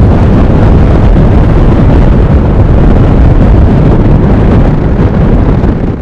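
Strong storm wind buffeting the microphone in a blizzard: a loud, steady rush heaviest in the low rumble, cutting off suddenly at the end.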